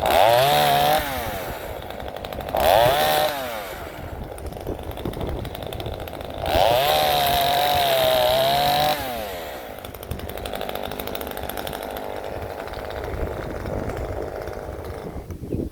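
Ozito 25.4cc two-stroke top-handle chainsaw revved three times, the last held for about two and a half seconds, then running lower and cutting out near the end. It runs weakly, which the owner puts down to a dying carburettor diaphragm.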